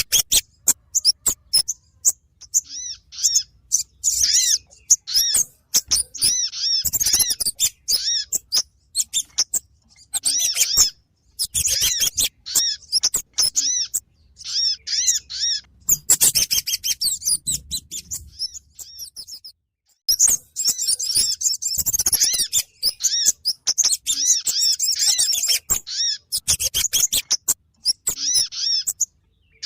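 Bird-lure recording of kemade and sogon calls: dense bursts of rapid, high-pitched chirps and chattering, broken by short pauses. It is played to draw these small birds in and bring them down.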